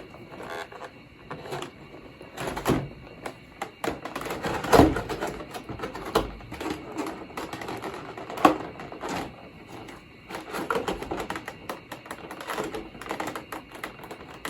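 Statue packaging being handled and pulled at: a run of irregular clicks and rustles, with a few louder knocks along the way.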